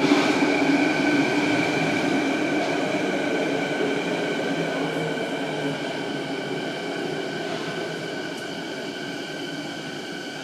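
Canada Line electric train running, a steady high-pitched electric whine over a rail rumble, slowly fading.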